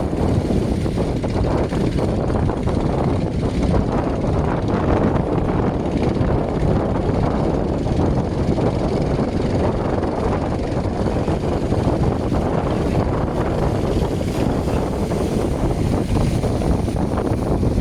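Motor fishing boat engines running steadily, a dense low drone with no breaks.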